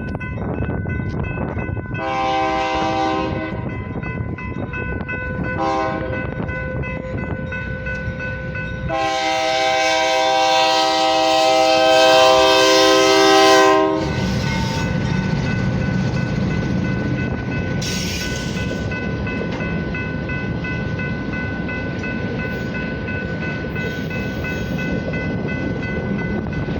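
Locomotive horn sounding a chord of several tones in three blasts: one of about a second and a half about 2 s in, a short one near 6 s, and a long, loudest blast from about 9 to 14 s. A steady rumble from the passing train runs underneath.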